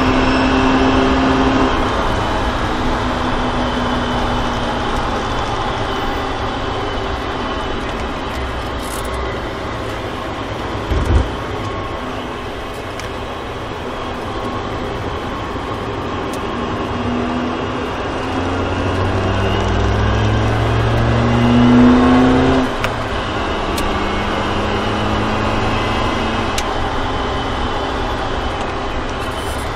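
BMW track car's engine heard from inside the cabin on a lap: the note falls away as it slows for a corner, with a short thump about a third of the way in, then climbs in pitch under acceleration and drops abruptly at a gear change about three-quarters through. Tyre and road noise run underneath.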